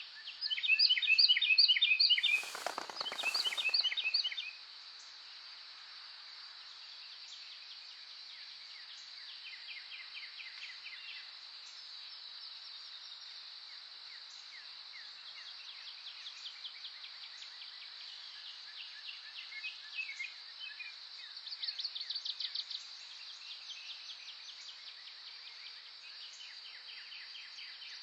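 Wild birds singing over a steady high insect drone. A loud song of quick repeated notes opens it, with a brief rush of noise about three seconds in, then quieter trills and chirps come and go.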